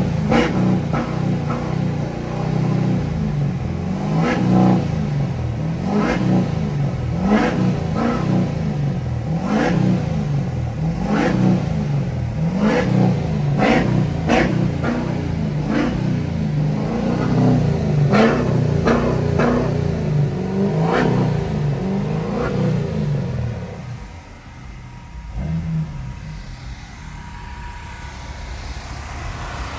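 A car engine revved over and over, its pitch climbing and falling back about once a second. Near the end the revving stops and a quieter background is left.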